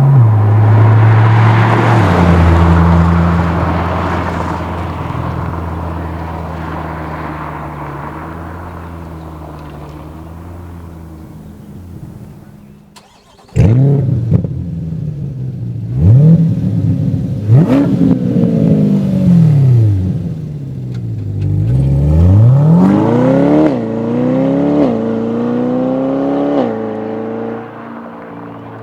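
Chevrolet Corvette C8's 6.2 L V8 through an MBRP 3-inch active cat-back exhaust. At first it holds a steady note that fades over about ten seconds. About halfway through it starts with a loud flare, then gives several sharp throttle blips that rise and fall, and a run of climbing revs near the end.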